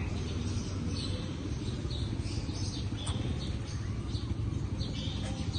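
Short, high squeaky bird chirps, several a second and irregular, over a steady low rumble.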